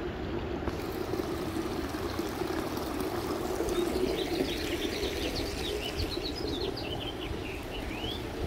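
Small birds chirping, a quick run of short high calls from about four seconds in, over a steady rushing background.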